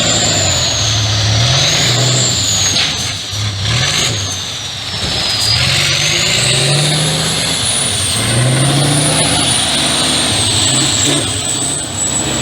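Competition trial truck's engine revving up and down repeatedly under load, with a high whistle wandering in pitch above it.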